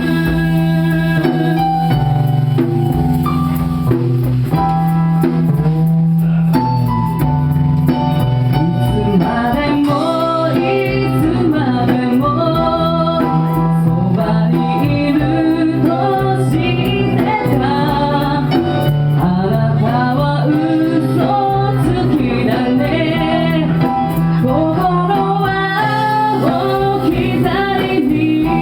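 Live band playing a slow pop ballad: drums keep a steady beat under sustained bass and chords, with a gliding melody line over them.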